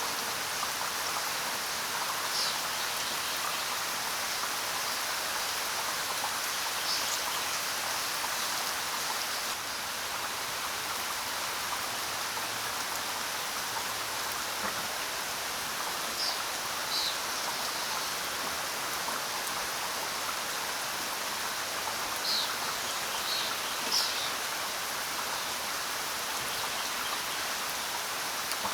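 Steady rainfall, an even hiss of drops, with a few short, high bird chirps scattered through it.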